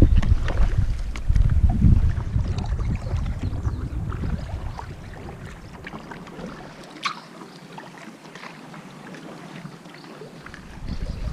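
Kayak paddling: paddle splashes and water drips, with a low rumble of wind on the microphone for the first few seconds that then dies away. A sharp tap comes about seven seconds in.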